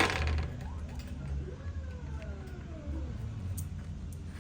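Pet birds making faint gliding calls that fall in pitch, over a steady low hum. A short loud noise comes at the very start.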